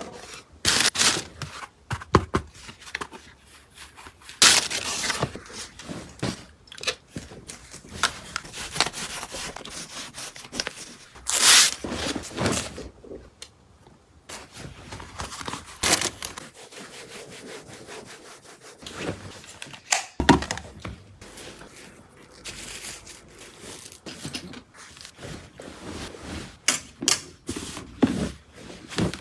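Irregular rubbing and scraping sounds, as of objects being handled, wiped or slid into place, with a few louder swishes and a sharp knock about two-thirds of the way through.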